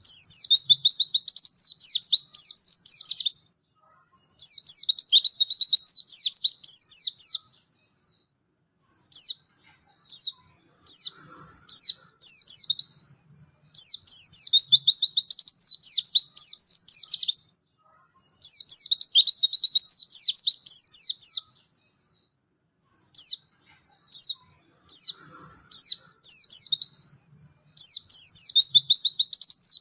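White-eye (pleci) singing a fast, high, chattering warble in phrases of a few seconds each, broken by short pauses.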